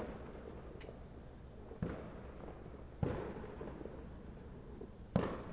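Fireworks going off: four separate booms at uneven intervals, each dying away in a short rumbling tail.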